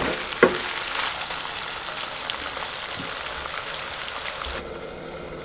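Chicken pieces sizzling in hot oil in a kadai, with two knocks of a wooden spatula against the pan near the start as the meat is stirred. The sizzle then goes on as a steady crackling hiss that slowly gets quieter.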